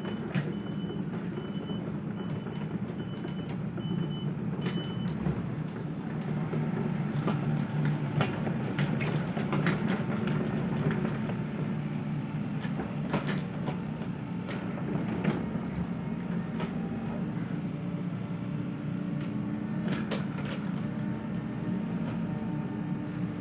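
Sumitomo SH 75 excavator's diesel engine running steadily under work. Its warning alarm beeps about twice a second and stops about five seconds in. Scattered sharp knocks come from the working machine.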